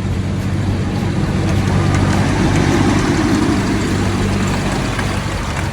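Amusement-park train's engine running with a steady low hum, with a swell of louder rushing noise in the middle.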